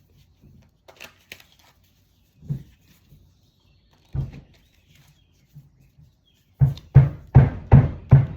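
A few separate soft knocks, then, near the end, a fast even run of knocks, about two to three a second, each dying away quickly.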